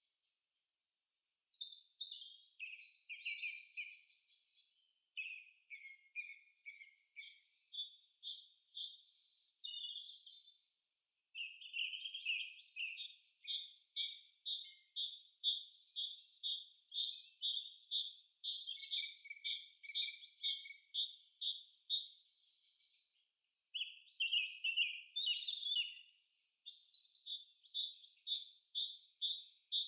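Birds chirping and singing: high-pitched notes that start about a second and a half in, then settle into a fast, steady run of repeated chirps with two short breaks near the end.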